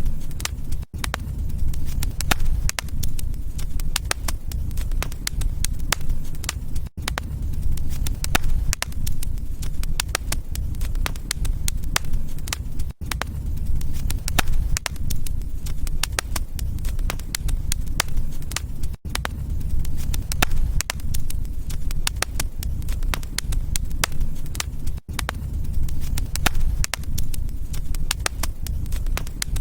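Wood fire crackling, a dense run of sharp pops and snaps over a steady low rumble, broken by a brief silent gap about every six seconds.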